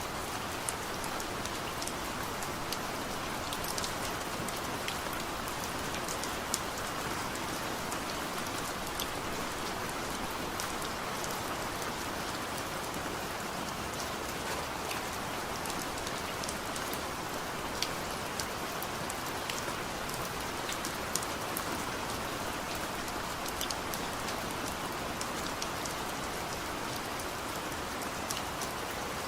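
Heavy rain falling steadily: a dense, even hiss with scattered sharp drop taps.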